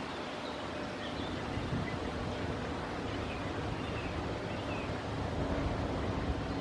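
Inland cargo ship's engine running as a steady low hum, under wind noise on the microphone and the sound of water.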